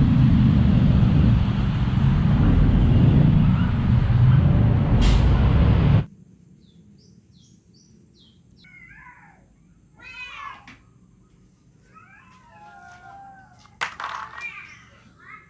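A heavy vehicle engine running loudly and steadily, cutting off abruptly about six seconds in. After that it is much quieter, with a few short high chirps and several wavering, meow-like cries.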